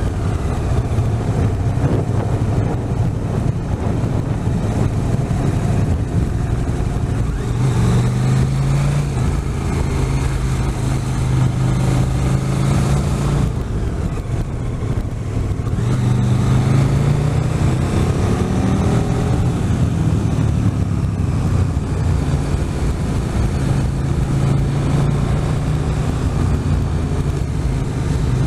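Motorcycle engine running on the move, its pitch shifting with the throttle. It eases off for about two seconds around the middle, then pulls again.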